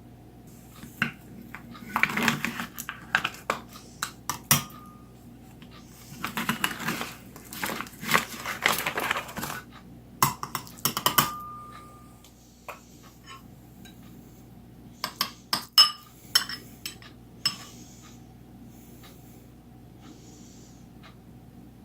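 A spoon clinking and scraping against dishes in several bursts, with two short ringing clinks of metal. A faint steady hum runs underneath.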